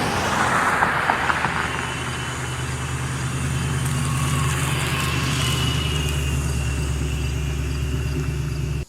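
Ford Mustang GT's 4.6-litre two-valve V8 running at steady revs through an SLP Loud Mouth 1 exhaust, with long-tube headers, catted mid-pipe, a deep even note, and a brief rushing noise in the first second or two. The sound cuts off suddenly right at the end.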